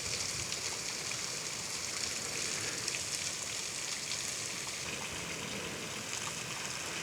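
Thin flow of water splashing and trickling down a low-running waterfall, a steady hiss with fine pattering.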